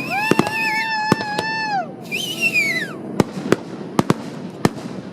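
Fireworks going off: a whistle holds a steady pitch for nearly two seconds, then falls away, and a second, higher whistle slides down just after it. Sharp bangs go off throughout, thinning to scattered single reports in the last two seconds.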